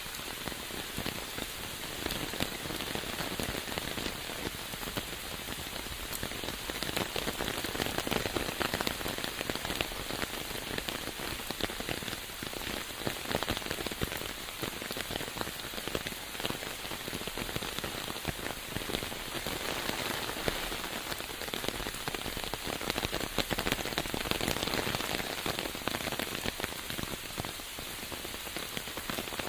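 Steady rain falling, a dense patter of many close drop impacts.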